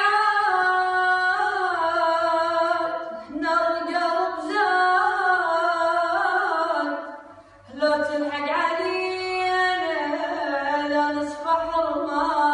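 A single voice singing unaccompanied in long, drawn-out melodic phrases with sliding ornaments between notes, pausing briefly about three seconds in and again about seven and a half seconds in.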